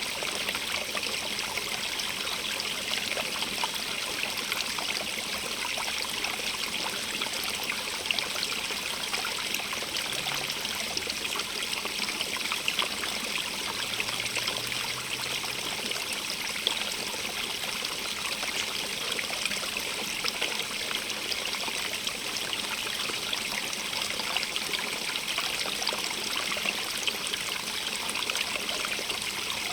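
Small stream of running water, a steady, even splashing and trickling over stones, brightest in the upper range.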